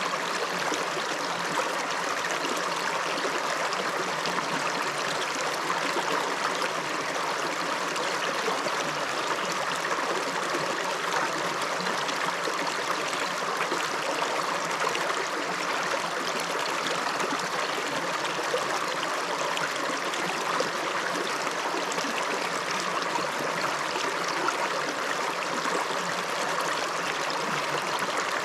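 Small river flowing over stones, a steady rushing and splashing of water.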